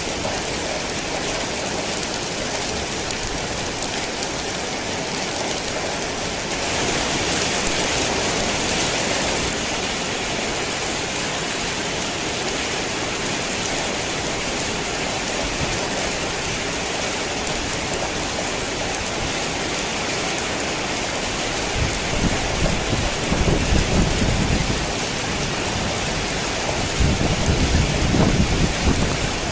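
Heavy rain falling steadily, a dense hiss that thickens for a couple of seconds early on. Low rumbles of thunder roll in twice in the last third.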